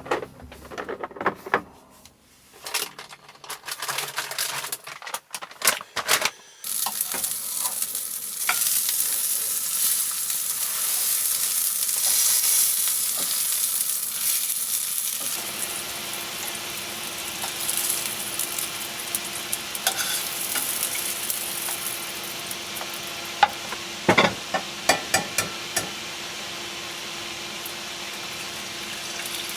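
Food sizzling in a frying pan. It starts after a run of clicks and knocks from handling the pan and utensils, and a few sharp utensil taps come near the end.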